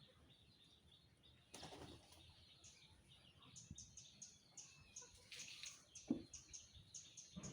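Faint small-bird chirping: short high chirps repeating two or three times a second from about halfway in. A brief rustle comes about one and a half seconds in, and a short soft knock near the end.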